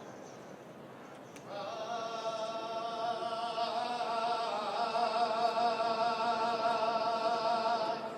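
Live Holy Week band music: after a quiet pause, a sustained chord with a slow vibrato comes in about a second and a half in. It is held until it stops just before the end.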